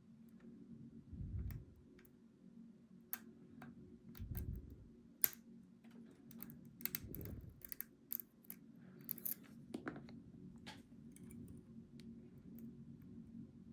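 Lock picks working a Goal V18 pin-tumbler lock: irregular small metallic clicks and ticks, with a few dull thumps from handling the lock, over a steady low hum.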